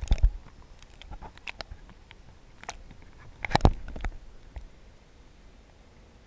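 Kayak paddling handling noise: irregular clicks and knocks, with two louder thumps, one right at the start and one about three and a half seconds in.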